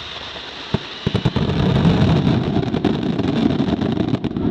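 Fireworks going off: a sharp bang about three-quarters of a second in, then from about a second in a dense run of crackles and pops over a low rumble.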